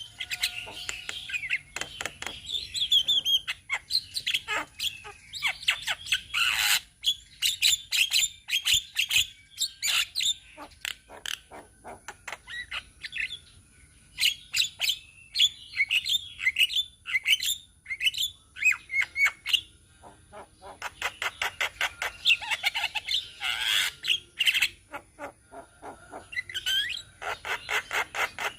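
Several Javan mynas chattering: a rapid, dense run of clicks, whistled notes and harsh squawks, with a couple of short lulls.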